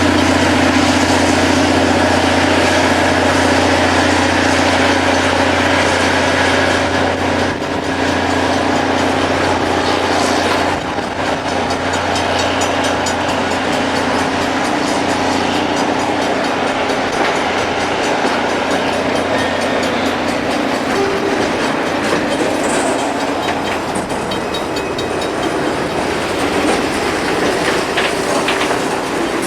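Rail grinding machine working on the track: a loud, steady grinding roar of its stones on the railhead over a low engine hum. The hum drops away about a third of the way through.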